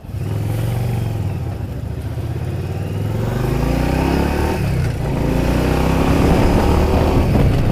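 Motorcycle engine running while riding, its pitch climbing as it accelerates, dropping suddenly about four and a half seconds in as it shifts gear, then climbing again.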